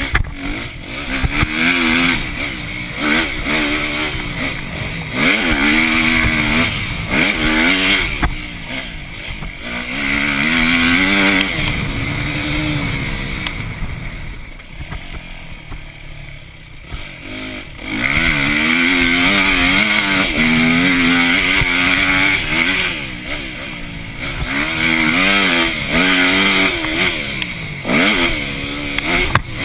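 Motocross dirt bike engine revving hard and backing off over and over as it is ridden round the track, its pitch climbing through the gears and dropping on the throttle, with a longer stretch held at high revs about two-thirds of the way in.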